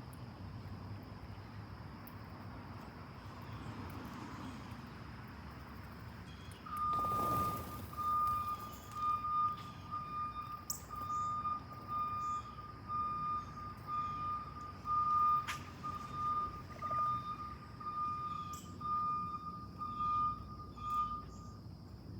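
A vehicle's reversing alarm beeping a single steady tone, about one and a half beeps a second, starting about a third of the way in and stopping shortly before the end. Under it a steady high insect drone runs throughout.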